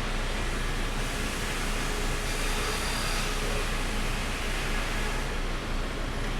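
Sawmill machinery running steadily: an even mechanical din with a low hum and no distinct strikes.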